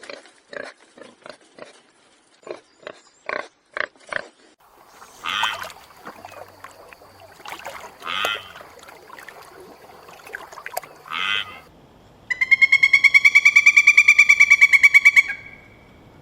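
A run of animal calls: short grunts for about four seconds, then three longer cries spaced a few seconds apart, then a rapid, evenly pulsed high trill lasting about three seconds.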